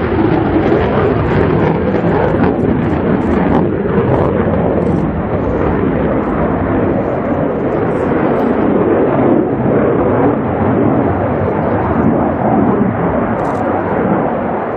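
F-16 fighter jet's engine running loud and steady, a dense continuous rumble.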